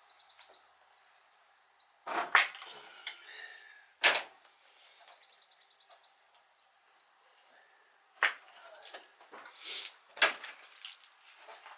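Scattered sharp clinks and knocks of hand tools on metal, about four louder ones spread through, during work on the exhaust headers. Behind them runs a steady high chirping of crickets.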